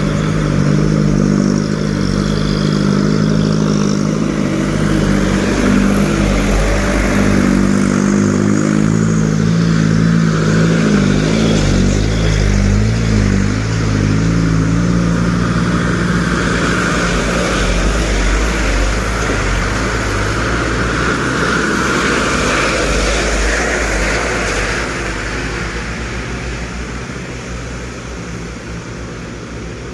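Medium trucks' engines running loud and steady as a convoy passes, easing off over the last few seconds.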